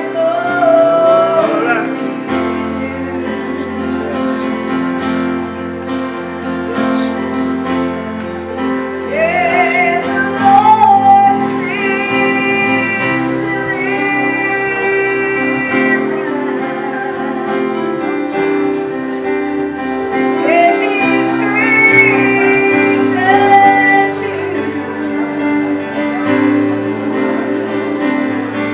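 Church worship music: a woman singing in long held phrases over sustained instrumental chords.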